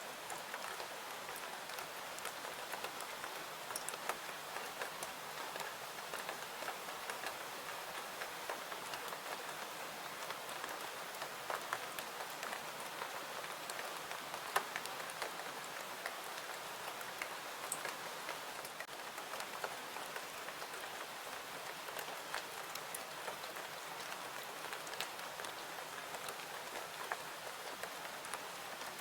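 Steady rain falling, an even hiss with scattered sharp ticks and pops, one of them standing out about halfway through.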